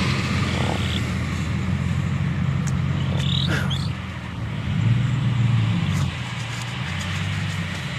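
Car engine idling steadily, with a couple of short high bird calls about three seconds in.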